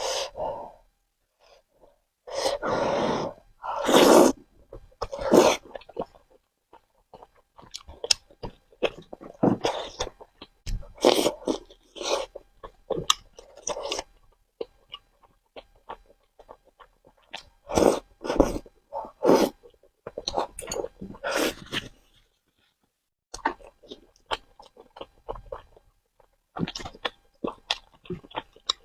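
Close-miked eating of spicy noodles: irregular wet chewing and mouth noises, with two longer slurp-like bursts a few seconds in.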